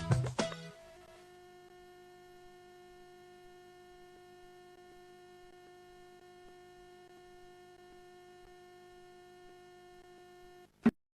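The tail of a song dies away in the first second, then a faint, steady electrical hum with a few held tones, cut off by a single sharp click near the end.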